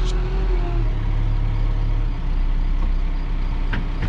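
JCB 3CX Compact backhoe's diesel engine running steadily as the machine is driven and steered. A higher steady tone fades out about a second in.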